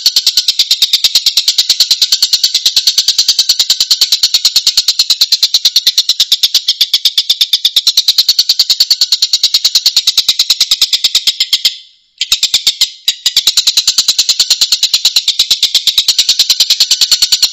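Tengkek giving its harsh, rapid-fire chattering call: coarse, tightly spaced notes repeated without pause, typical of masteran recordings used to train caged songbirds. The run breaks off for about a second roughly two-thirds of the way through, then goes on.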